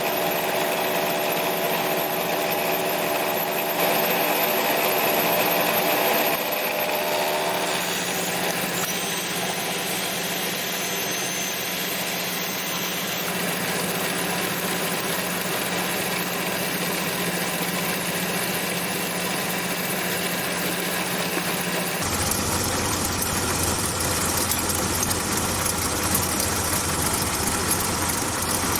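Small home-shop machine tool running steadily under load while milling flats onto a round spacer blank. About 22 s in, the running sound changes, with a low hum coming in and the sound turning brighter.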